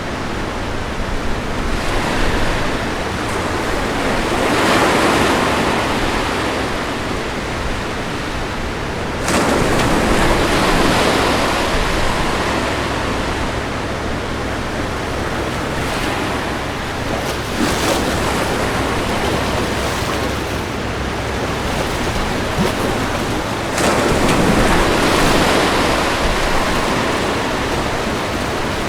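Ocean waves breaking on a beach, one surge about every six to eight seconds, each swelling into a loud crash of surf and washing back, over a steady hiss of water.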